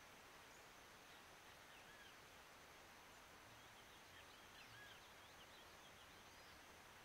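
Near silence with faint, distant bird chirps: a few short calls early and a quick run of twittering about three to five seconds in.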